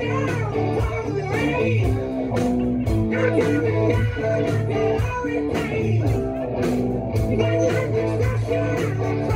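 Blues-based rock music: electric guitar over bass and drums, with a steady drum beat.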